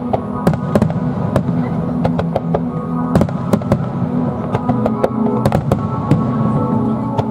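Aerial fireworks bursting in a rapid, irregular series of sharp bangs and cracks, over steady sustained music.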